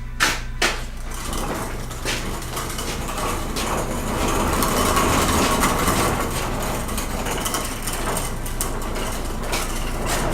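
Two sharp knocks near the start, then continuous clattering and scraping of hard objects.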